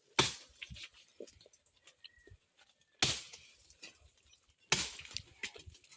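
Three sharp blows, about 0.2 s in, 3 s in and 4.7 s in, each dying away quickly, with a few faint knocks and clicks between them.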